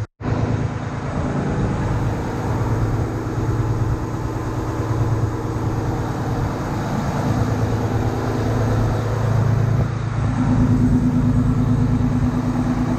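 Volvo truck's diesel engine running steadily at a raised idle of about 1100 rpm during a forced exhaust-aftertreatment regeneration. A steady higher hum joins in about ten seconds in.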